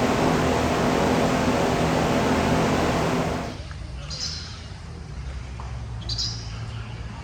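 A motor or large fan hums steadily under a loud, even rush, then cuts off abruptly about three and a half seconds in. After that come short, high bird chirps, twice.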